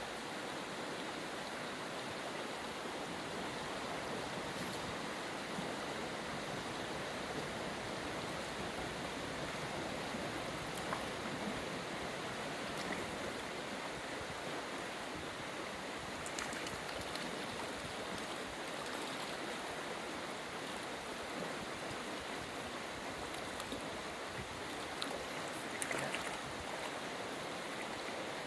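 The River Honddu, a small stream, running: a steady rush of flowing water.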